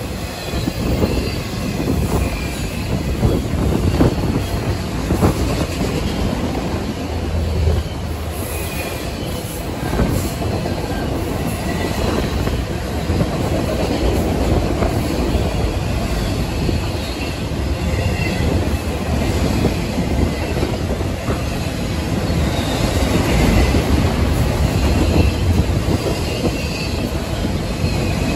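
Two Union Pacific freight trains rolling past at once on tracks either side of a platform, one of autorack cars and one of double-stack container cars: a steady rumble with the clatter of wheels over the rails and faint, intermittent wheel squeal.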